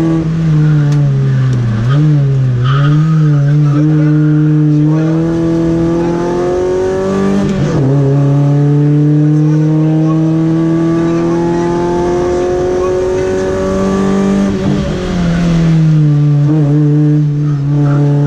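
Volkswagen Golf rally car's engine under load on a stage, its pitch climbing slowly as the revs build, with a sudden drop in pitch at each of two gear changes, one about halfway through and one near the end.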